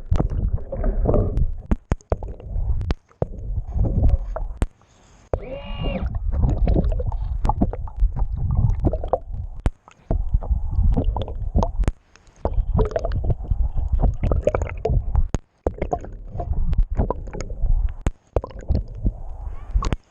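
Water rushing and gurgling past an underwater camera as the boat moves: a heavy low rumble broken by frequent sharp clicks and knocks, with the sound dropping away briefly several times.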